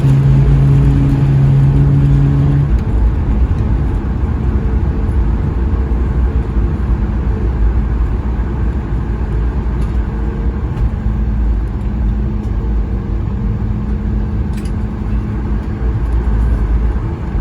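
Cabin noise of a Boeing 737 MAX 8 rolling out after landing: a steady low rumble. A low engine hum stops about three seconds in.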